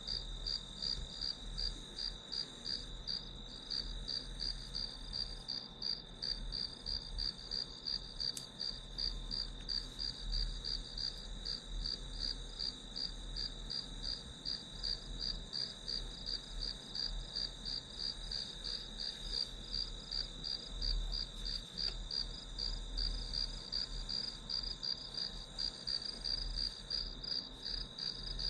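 Crickets chirping in a steady, even rhythm of quick high-pitched pulses.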